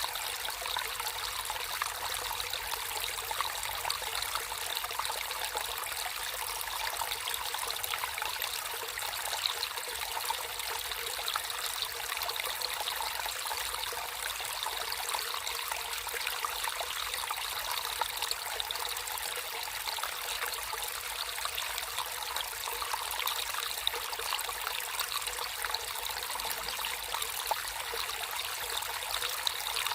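Small stream of water trickling and splashing, a steady bubbling flow.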